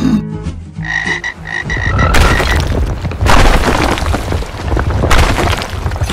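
Cartoon frog-creature sound effects. A quick series of short high beeps comes about a second in, then from about two seconds in a loud, dense croaking racket mixed with crashing, breaking noise.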